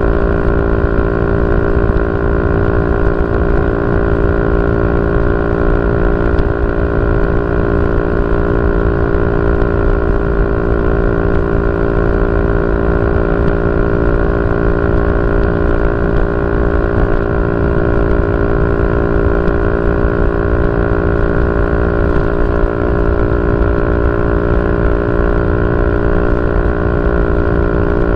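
Yamaha Y15ZR's 150cc single-cylinder four-stroke engine idling steadily through a YYPANG SD3 aftermarket exhaust, at an even pitch with no revving.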